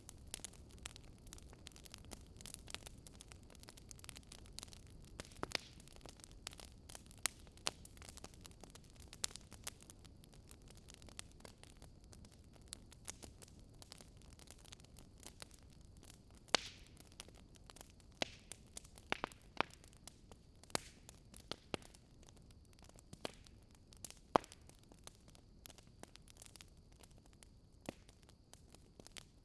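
Fireplace fire crackling: irregular sharp pops and snaps over a low, steady hiss of the flames, with a couple of louder pops in the second half.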